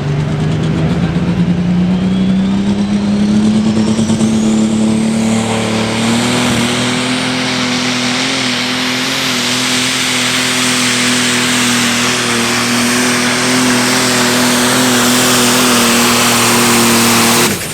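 Turbocharged diesel engine of a Light Pro Stock pulling tractor under full throttle during a pull, its pitch climbing over the first several seconds alongside a rising high turbo whistle, then holding steady and loud. The engine cuts off suddenly near the end, marking the end of the pass.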